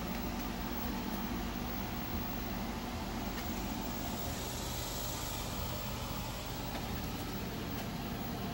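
Steady machine hum with an even hiss running underneath, and a faint swell of higher hiss around the middle.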